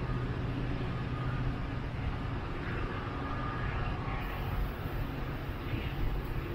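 Train running, a steady low engine hum over a continuous rumbling noise.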